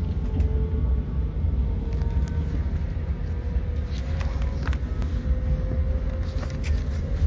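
Low, steady rumble of a TER regional train running, heard from inside the passenger carriage, with a faint steady tone over it. A few light clicks and rattles come around the middle and near the end.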